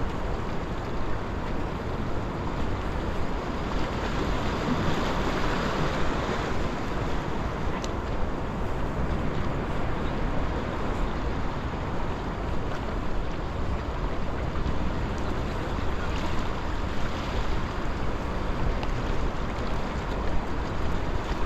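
Sea surf washing steadily against a rock breakwater, with wind rumbling on the microphone.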